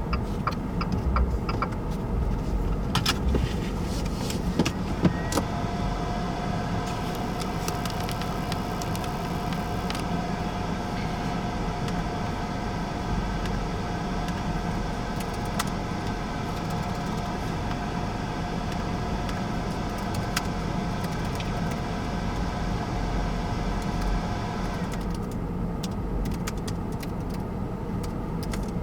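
Steady car noise with engine and road hum, heard from inside the vehicle. A faint steady whine runs through the middle, and a few scattered clicks come in the first few seconds.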